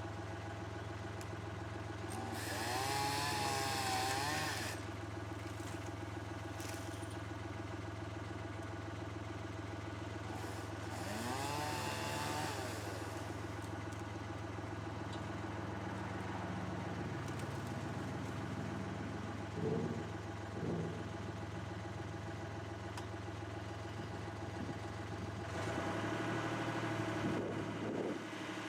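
An engine runs steadily throughout. Over it a chainsaw cuts in two bursts, its pitch wavering under load, about two seconds in and again around eleven seconds. There are a couple of short knocks around twenty seconds and a louder stretch near the end.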